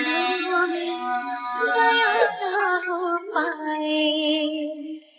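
Background music: a high singing voice holding long, drawn-out notes with sliding changes of pitch, fading out near the end.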